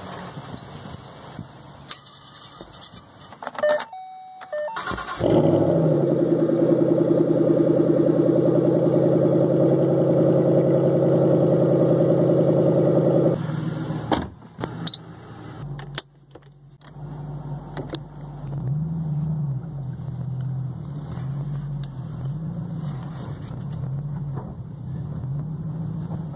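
Shelby GT500's supercharged 5.8-litre V8 starting about five seconds in and idling loudly and steadily with the hood open. After a break, the same engine is heard from inside the cabin while driving, its pitch rising and falling several times as it pulls and eases off.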